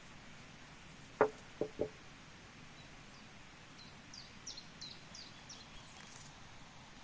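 Quiet forest background with a small bird singing a run of about seven high, quickly falling chirps. Three short, loud sounds come close together about a second in.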